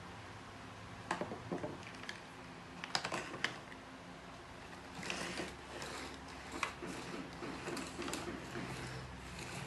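Irregular small clicks and rattles of hard parts being handled, a few sharp clicks near the start and busier rattling from about halfway through.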